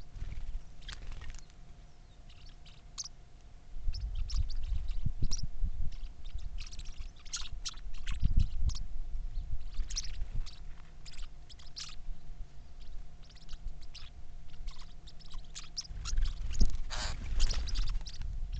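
Birds chirping, many short calls one after another, over a low rumble of wind on the microphone.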